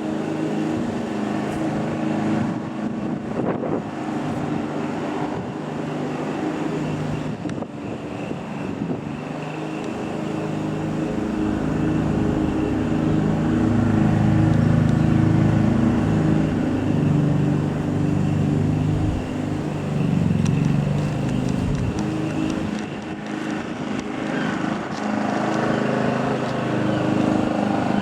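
Petrol lawn mower engine running under varying load, its pitch wavering and stepping, louder in the middle stretch.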